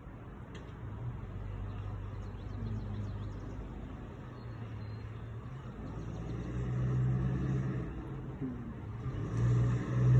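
Gusty wind blowing, with a low rumble, swelling in gusts about six seconds in and again near the end.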